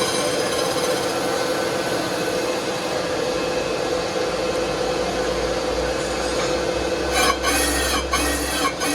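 Steady factory machinery noise with a constant hum and steady tones, with a louder, rougher stretch near the end.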